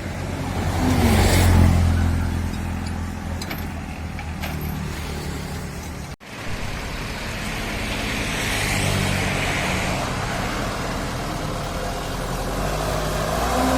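Diesel engine of heavy farm or haulage machinery running steadily, swelling louder about a second in, with a momentary break about six seconds in.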